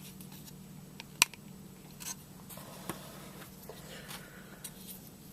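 A few light clicks and taps over a steady low hum, with one sharp click about a second in.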